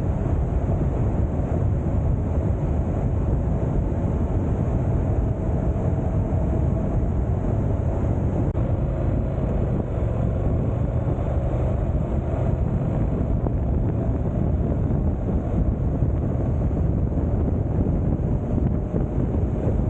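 A motorcycle riding along at steady speed: the engine's drone under heavy wind rushing over the microphone, with no change in speed.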